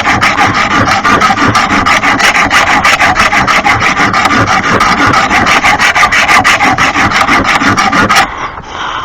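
Lawn mower blade being sharpened by hand with a file: fast, even rasping strokes, several a second, that stop abruptly near the end.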